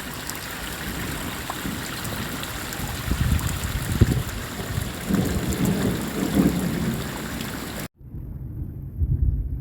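Heavy rain falling steadily, with low rumbles of thunder from about three seconds in. The sound cuts off suddenly near the end, leaving only a low throbbing hum.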